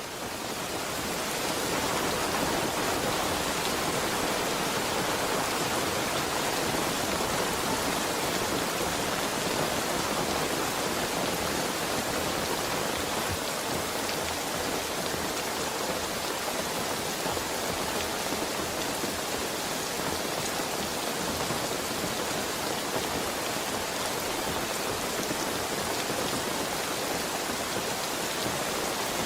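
Heavy rain falling steadily, a dense even hiss of drops on surfaces that fades in over the first couple of seconds.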